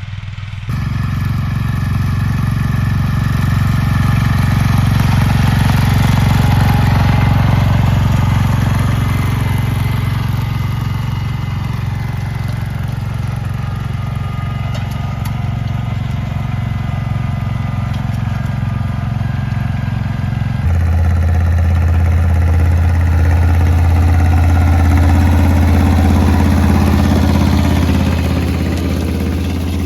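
Garden tractor engine running steadily under load while working the field. About two-thirds through the sound changes abruptly to a deeper, stronger engine note.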